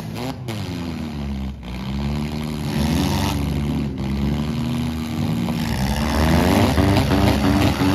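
Demolition derby cars' engines revving, several at once, their pitch rising and falling, growing louder about six seconds in.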